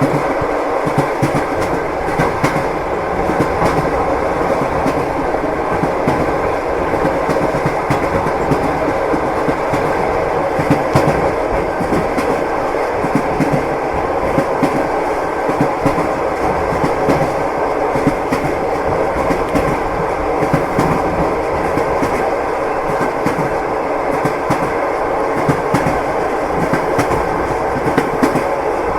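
Passenger train running on the rails, its wheels knocking over the rail joints in a continuous clickety-clack over a steady rumble.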